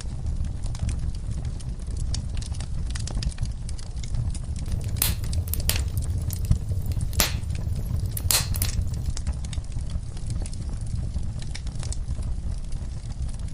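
Wood fire crackling in a fireplace: a steady low rumble of flames under constant small crackles. A handful of louder, sharp pops come in the middle, between about five and nine seconds in.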